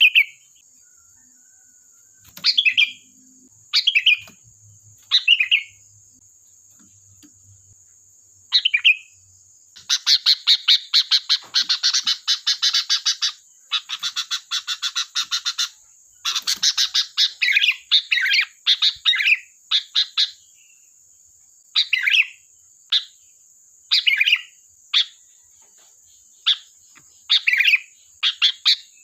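Sooty-headed bulbul (kutilang) calling: short bubbling phrases every second or two, broken by two long runs of rapid chattering notes, about ten seconds in and again about sixteen seconds in.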